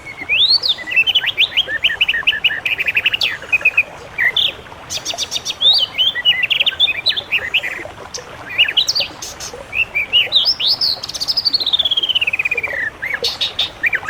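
Songbirds singing: a fast, varied run of chirps, whistles and trills, with a long series of notes falling in pitch near the end.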